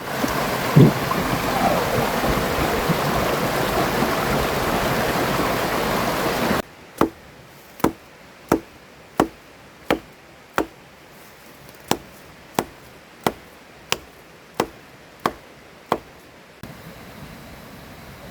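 Loud rushing river water. About six and a half seconds in it cuts to about a dozen sharp knocks of wood being chopped at a steady pace, roughly three every two seconds, over quiet background noise.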